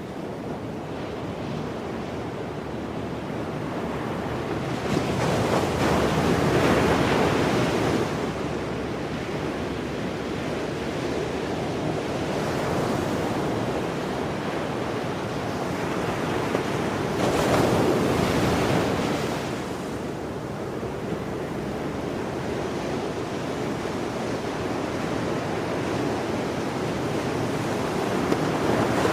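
Sea surf and strong wind at the shore: a continuous rushing noise that swells and falls, louder about a quarter of the way in, past the middle, and again near the end.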